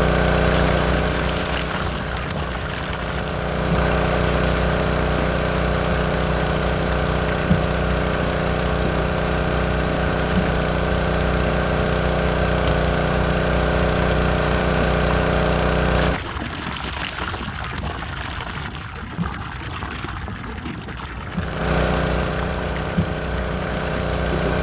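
A small motor running steadily with a low hum. For about five seconds after the middle the hum drops out, leaving a thinner rattling noise, then it comes back.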